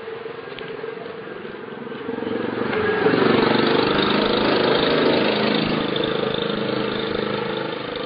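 A motor vehicle's engine passing close by: it grows louder from about two seconds in, is loudest for a couple of seconds, then slowly fades away.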